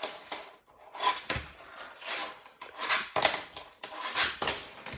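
Fingerboard trucks fitted to a playing card as a deck, clicking and clattering against a hard surface as it is flicked and rolled: a string of irregular sharp clicks and short scraping knocks.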